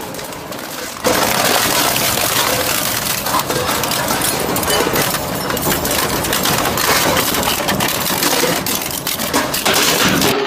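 Crushing machine grinding material, a dense crackling crunch that gets suddenly louder about a second in as it takes a load.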